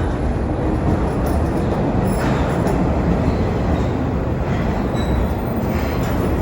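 A New York City subway train running on the track, a steady loud rumble of wheels and cars.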